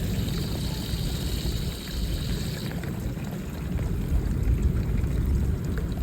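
Running water and rain with wind rumbling on the microphone. A higher hissing part of the water sound stops about three seconds in.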